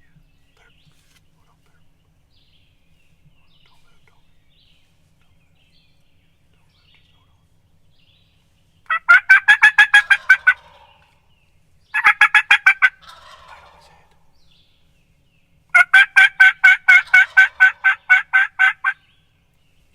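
Turkey calling: three loud runs of rapid, evenly spaced notes, the first about a second and a half long, the second about a second, and the last about three seconds.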